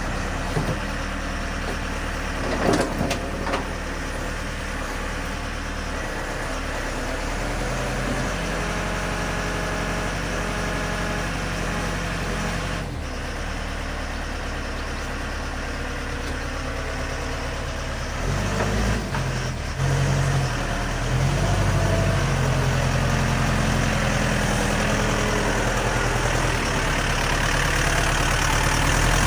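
A heavy vehicle's engine running steadily, its note shifting about 13 seconds in and growing louder from about 18 seconds in, with a few knocks a few seconds in.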